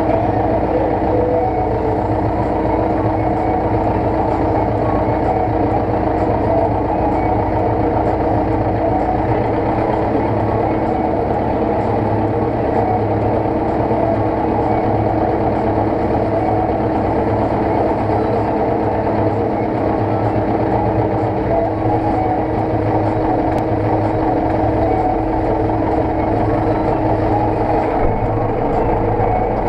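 Zetor tractor's diesel engine running steadily at constant speed, with a slight change in its tone about two seconds before the end.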